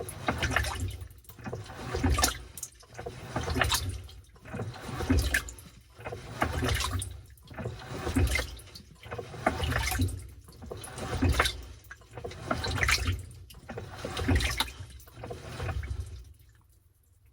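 Washing machine in its wash cycle, water sloshing in regular surges about every second and a half as the load is churned back and forth; the churning stops near the end.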